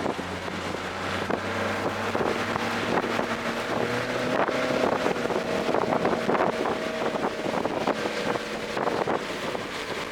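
Toyota GR Corolla's turbocharged 1.6-litre three-cylinder engine running hard on track, its note shifting upward about halfway through, with wind noise over it.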